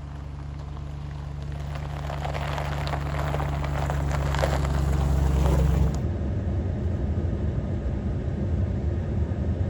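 Pickup truck on the move: a steady engine drone with road noise that grows louder, then turns to a rougher, uneven rumble about six seconds in as the truck slows.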